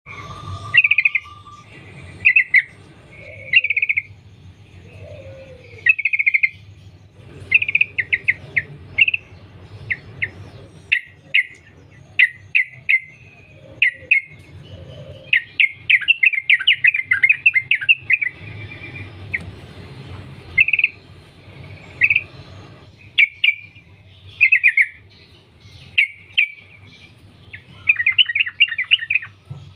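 Yellow-vented bulbul (trucukan) singing in short, quick chattering phrases every second or two, with a couple of longer rapid runs, over a faint low steady hum.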